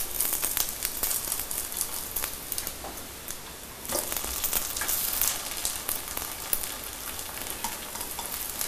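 Garlic and bread pieces frying in butter in a steel pot, sizzling steadily, with the light clicks and scrapes of a spatula stirring them; the sizzle eases briefly and picks up again about four seconds in.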